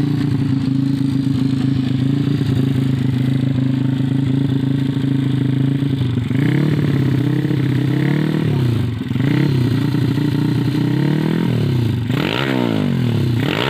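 125cc underbone motorcycle engine idling steadily, then revved with a few short throttle blips that rise in pitch and fall back to idle, the last two near the end the biggest, as the idle is being set for a smooth, quiet run.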